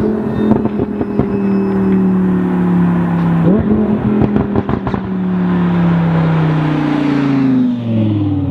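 Lamborghini Huracan's V10 engine through an Armytrix aftermarket exhaust, blipping up in revs twice as it downshifts and then winding down as the car slows. Each blip is followed by a burst of popping and crackling from the exhaust on the overrun.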